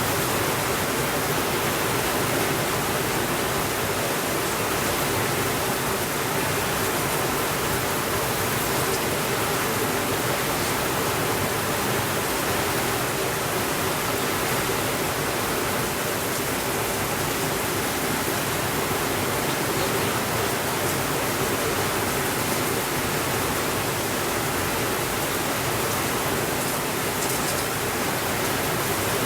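Steady rainfall, an even hiss that does not change in level.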